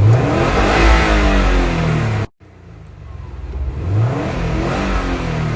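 A car's engine being revved, its pitch rising. The sound cuts out abruptly a little over two seconds in, then the engine revs up again. The exhaust is still stock and "not that loud yet."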